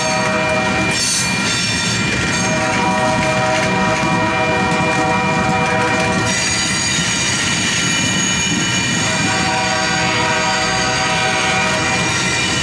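Coal train's freight cars rolling steadily past with a continuous rumble and clatter of wheels. Squealing tones from the wheels come and go, and a higher squeal joins about halfway through.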